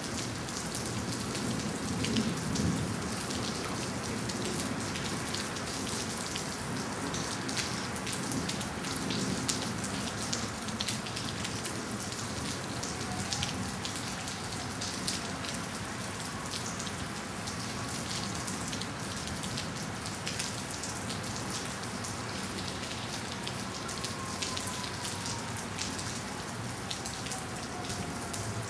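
Steady rain falling hard during a thunderstorm, with many close drop hits on surfaces.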